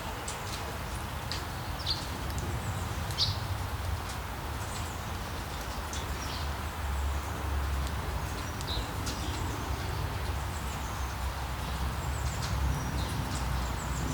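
Steady rain falling, with a low rumble beneath it. Small songbirds chirp over it: short, high, downward-sweeping calls repeated at irregular intervals throughout.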